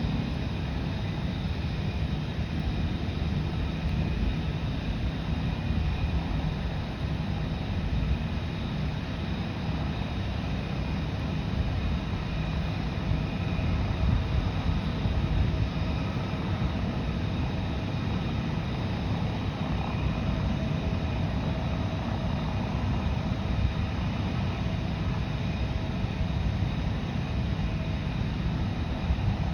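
Aircraft engines running steadily: a continuous low rumble with a faint, steady high-pitched whine on top.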